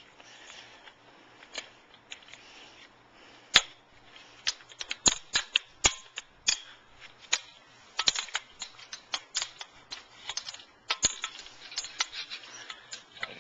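Irregular sharp clicks and knocks of hard display-booth parts being handled and fitted together, a single loud one about three and a half seconds in and then quick clusters of them.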